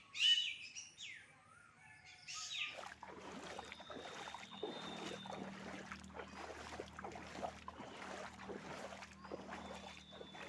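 Birds chirping, then from about two and a half seconds in, steady water sloshing with many small irregular splashes, as of a small boat moving through floodwater.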